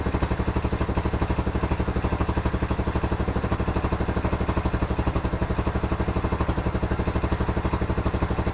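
Pit bike engine running steadily on its own, a rapid, even stream of firing pulses, just started after a long fight with a flat battery.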